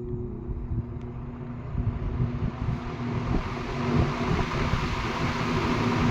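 Early-1960s Eskimo 20-inch single-speed box fan starting up. There is a click about a second in, then the rush of air from the blades grows steadily louder as the fan comes up to speed over a low motor hum.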